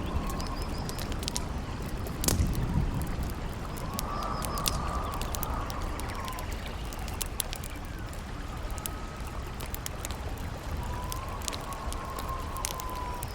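Campfire crackling and popping, with one louder pop about two seconds in, over a steady low rush of wind and flowing water. Twice a howling wind whistle rises and falls.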